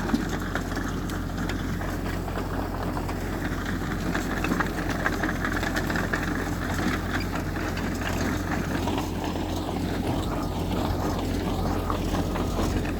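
Heavy diesel earthmoving machinery running steadily, a deep engine drone under a continuous rattle and crackle.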